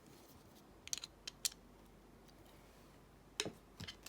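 Small sharp clicks and taps from a padlock and tools being handled on a bench: a quick cluster about a second in and a few more near the end.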